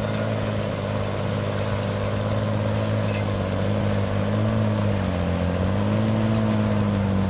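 A machine's engine running steadily with an even hum, its pitch dipping briefly about five seconds in and then recovering.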